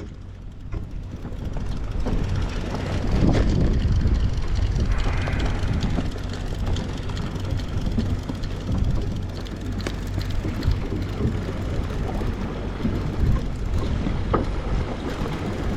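Steady low hum of a fishing boat's engine, with wind buffeting the microphone and a few faint knocks.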